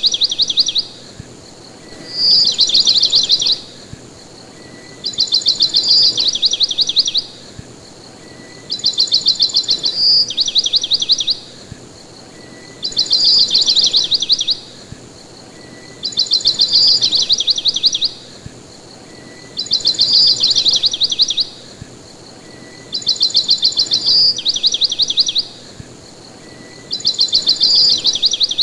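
A songbird singing the same short song over and over, about every three and a half seconds. Each song opens with a clear high note that runs into a fast, rattling trill lasting about a second and a half.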